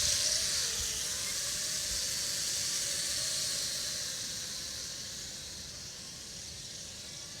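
Mini quadcopter's small electric motors and propellers buzzing in flight, a high hiss with a faint wavering tone beneath it, growing gradually fainter as it flies farther off.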